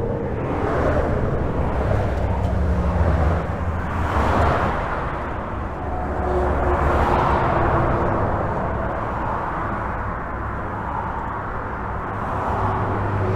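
Steady highway traffic heard from under a bridge: a continuous low rumble with the tyre noise of passing cars swelling and fading, the strongest passes about four and seven seconds in.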